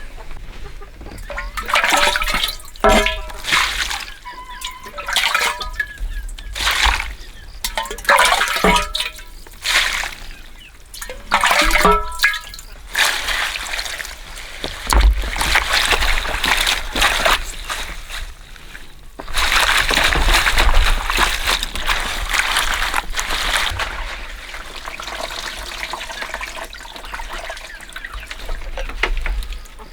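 Water pouring and splashing for much of the second half. In the first half there are several short pitched calls, about every three seconds.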